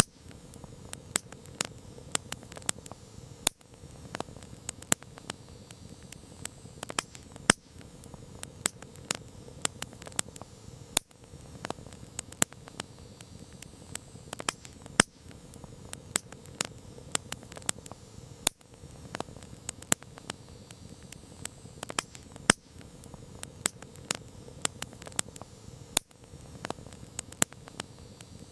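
Wood campfire crackling: irregular sharp pops and snaps, several a second, over a soft steady hiss of the burning fire.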